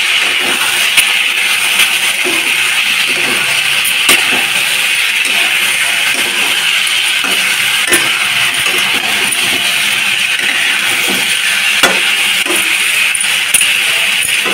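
Diced potatoes and chickpeas sizzling in oil in a metal kadai, a steady hiss. A wooden spatula stirs them, with a handful of sharp knocks and clinks against the pan.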